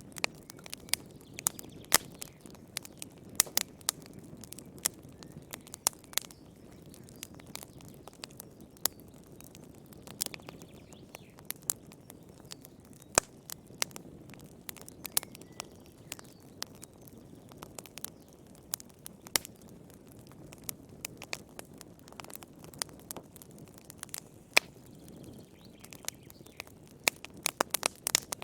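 Wood fire burning in a fireplace: a soft steady low rush of flame under irregular sharp crackles and pops from the burning firewood, coming in a quick cluster near the end.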